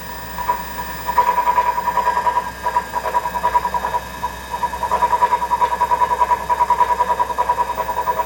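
Treadmill drive motor running with a rumbling noise, a fast rough pulsing that eases off briefly twice. The owner traces the rumble to the motor, not the front roller, since a brand-new front roller did not cure it.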